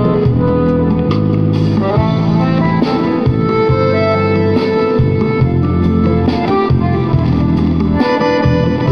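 Accordion playing the melody of an instrumental tune over a steady backing, with held notes and a regular pulse in the bass.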